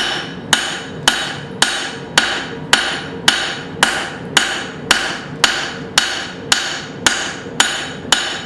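An old hand hammer of about 2 pounds strikes a steel billet on an anvil at a steady pace, just under two blows a second. Each blow is sharp and rings briefly. The steel is being drawn out into a taper for a wrapped-eye axe.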